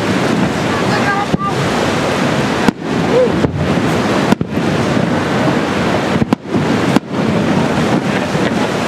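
Aerial firework shells and comets bursting overhead in a string of sharp, loud bangs, roughly one every second or so, each one briefly overloading the recording. Behind them runs a steady rushing background of crowd voices and wind on the microphone.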